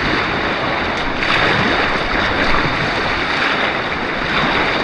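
Steady rush of white water on an artificial white-water course, heard close up.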